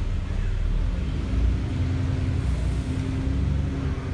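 Steady low rumble of a running engine, with a faint held hum over it.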